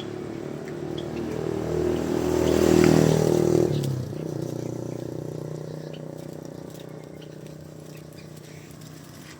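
A motor vehicle's engine passing by, growing louder to a peak about three seconds in, then dropping away and fading out.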